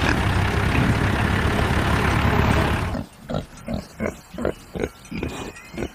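Tractor engine running steadily, cutting off abruptly about three seconds in; then a domestic pig grunting in a quick series of short grunts.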